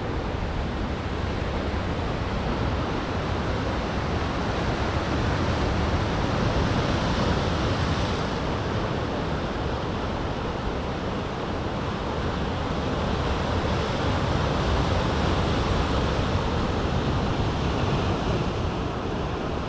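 Ocean surf breaking on rocky shore: a steady rushing wash that swells louder twice, about a third of the way in and again after about three-quarters.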